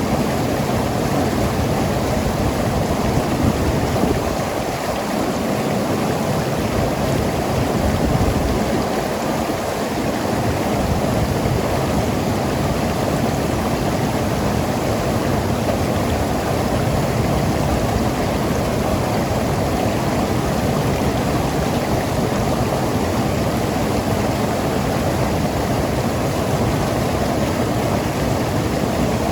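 Mountain river rushing and gurgling over rocks, a loud, steady flow of water.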